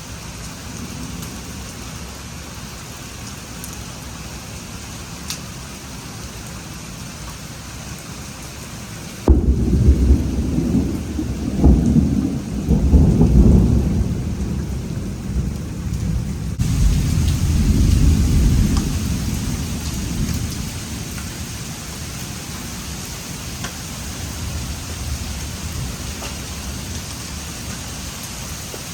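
Steady rain, then about nine seconds in a sudden thunderclap that rolls on in several low rumbling swells for about ten seconds before fading back under the rain.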